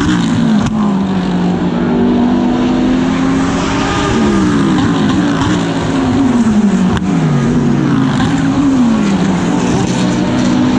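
GT3 race car engine heard onboard at racing speed, its revs held steady, then dropping and climbing again several times from about four seconds in as it brakes and accelerates through gear changes.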